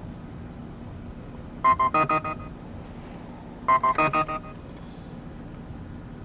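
Card payment terminal on a car wash pay machine beeping: two quick runs of short tones, about two seconds apart. A minivan engine hums steadily at idle underneath.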